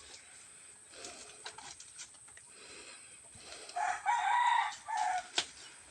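A rooster crowing once, starting about four seconds in and lasting over a second with a brief break near its end. Faint scattered knocks and scrapes come before and after it.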